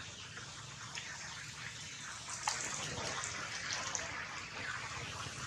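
Steady rain falling on a flooded pool and wet ground: an even hiss with a few sharper drop ticks.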